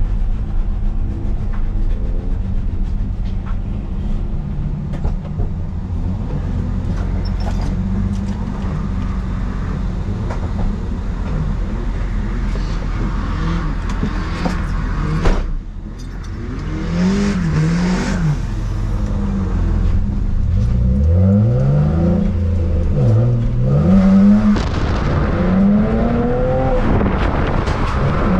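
Car engine running steadily, then from a little past halfway revved hard again and again, its pitch rising and falling in quick sweeps, as a drift car is driven. A single sharp knock comes just before the revving starts.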